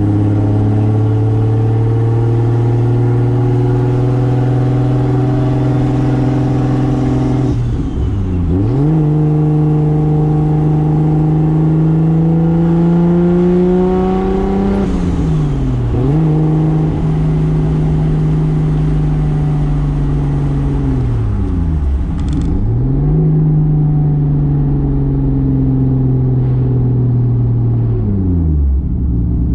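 1995 Toyota Soarer's single-turbo 2JZ inline-six running under load, its pitch climbing slowly. Four times the revs drop sharply and pick up again.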